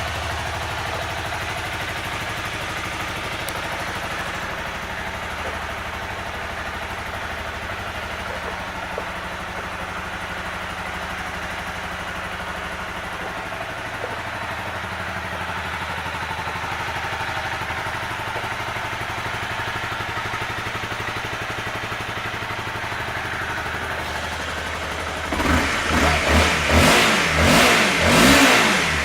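2013 Honda CBR250R's single-cylinder engine idling steadily, then revved in a quick run of about five throttle blips near the end, each rising and falling in pitch.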